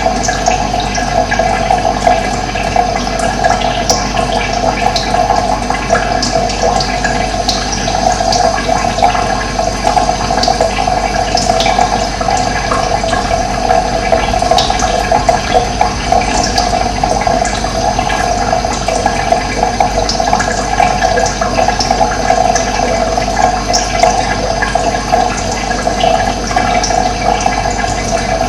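Running water, a steady rushing flow with no let-up, strongest in the middle of its range.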